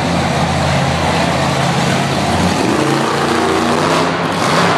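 Monster truck engine running loud and heavy, its pitch shifting about halfway through.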